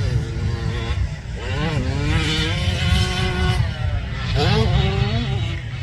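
Motocross dirt bike engines revving hard: the pitch climbs and holds twice as bikes accelerate, over a constant low rumble.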